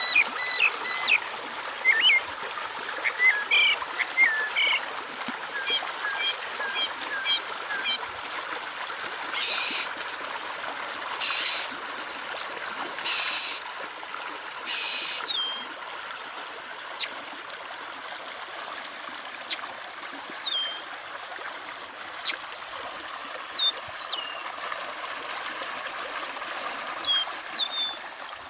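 Water trickling steadily, with songbirds calling over it in short sweeping whistled chirps. Around the middle come four short rasping bursts, each about half a second long.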